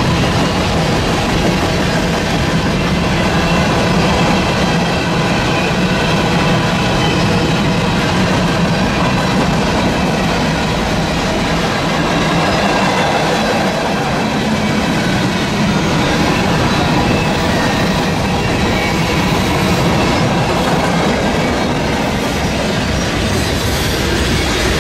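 Freight cars of a manifest train (covered hoppers, tank cars, boxcars) rolling past close by: a steady rumble and clatter of steel wheels on the rails.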